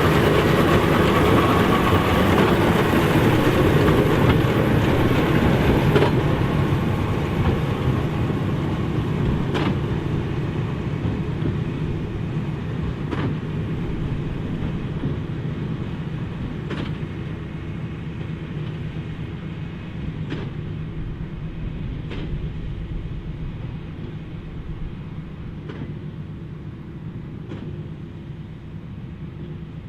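John Deere 8530 tractor's six-cylinder diesel running steadily under load while pulling a Massey Ferguson 2190 big square baler, with a sharp knock from the baler every few seconds. The sound fades as the rig moves away.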